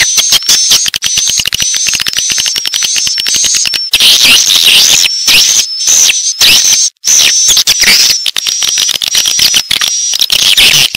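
Swiftlet calls: a dense stream of rapid clicking with short, thin, high chirps repeating about twice a second. It is a swiftlet-house lure call, played to draw swiftlets in to roost and nest.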